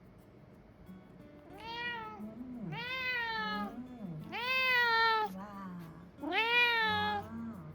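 A domestic cat meowing four times, each meow rising and then falling in pitch.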